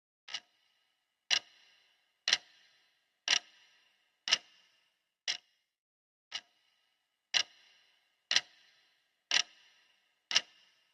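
Clock ticking, one sharp tick a second, some ticks louder and ringing briefly, others quieter.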